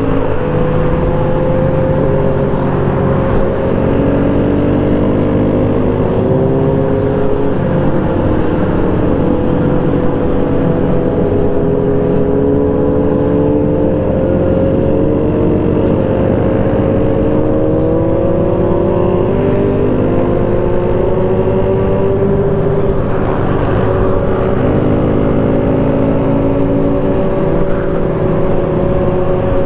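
Small single-cylinder Kawasaki Z125 motorcycle engine running under way, its pitch rising and falling gently as the throttle and speed change, over a steady low wind rumble.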